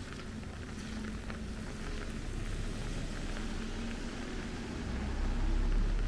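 Rain falling with a steady hiss, and the low rumble of an engine that grows louder over the last second or so.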